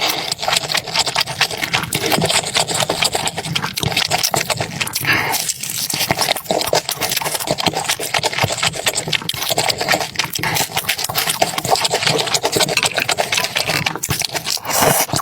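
Close-miked eating sounds: dense, irregular wet chewing clicks.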